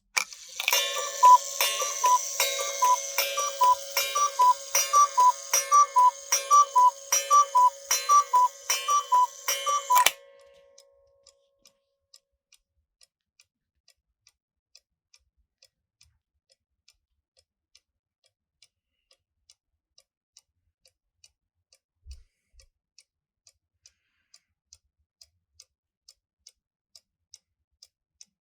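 Engstler 522/6 one-day mechanical cuckoo clock calling the hour: about a dozen two-note cuckoo calls, each with a strike on its gong, stopping about ten seconds in. After that the clock's movement ticks steadily and quietly.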